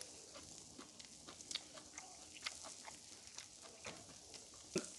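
Faint, irregular clicking and crackling from pork grilling on hot pebbles and being chewed.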